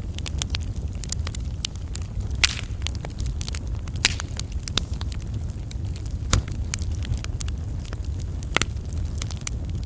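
Wood fire crackling in a fireplace: a steady low rumble of flames under frequent sharp pops and snaps, a few of them louder.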